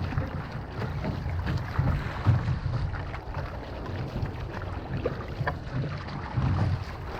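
Wind buffeting the microphone in uneven gusts, over the sound of water around an outrigger canoe.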